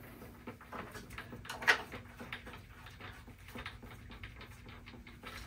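Small clicks and handling noises as the caps are put back on the car's air-conditioning service ports, with one sharp click about a second and a half in, over a faint steady low hum.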